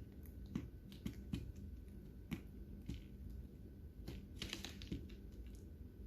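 Lovebirds cracking and husking seeds with their beaks: faint, irregular sharp clicks and small crunches, with a quick cluster of clicks about four and a half seconds in.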